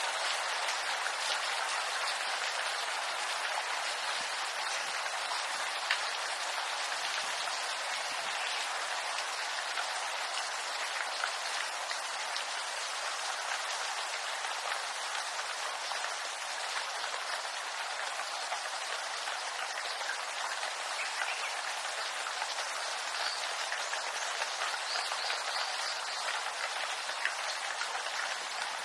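Steady rain falling on a bamboo grove, an even hiss dotted with many small drop ticks.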